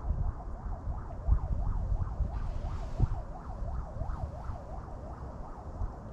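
Wind buffeting the microphone in uneven gusts. Over it, a faint high tone warbles up and down about three times a second throughout.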